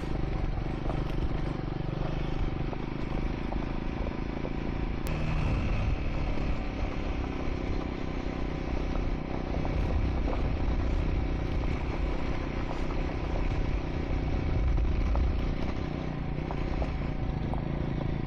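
Triumph Scrambler 400 X's single-cylinder engine running steadily while riding a gravel dirt track, with loose stones clattering under the tyres and rushing wind.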